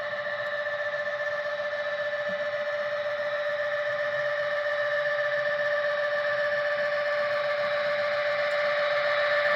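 HO scale model locomotive running on the layout: a steady whine of several fixed tones that grows slowly louder.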